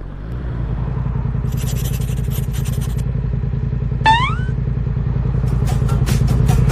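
Motorcycle engine running steadily with an even low pulse, growing louder over the first second. A short high hiss comes in the middle, a brief rising chirp about four seconds in, and a run of sharp clicks near the end.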